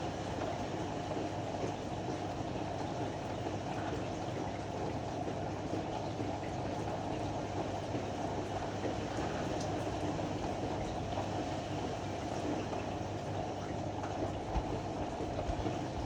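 Ariston AML125 washer-dryer running with a steady, even rumble.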